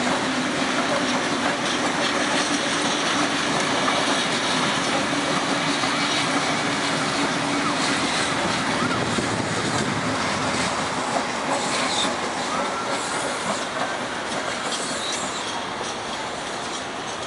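Electric commuter train passing close by: a steady rolling noise of steel wheels on rail, with a low hum in the first half. The sound fades slightly near the end.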